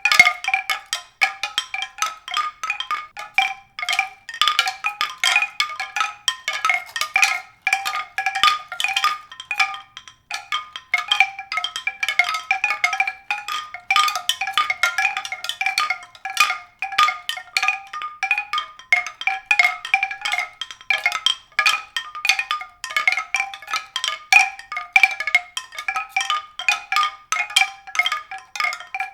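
Bright struck tuned-percussion notes sounding in quick, irregular succession on a few recurring pitches.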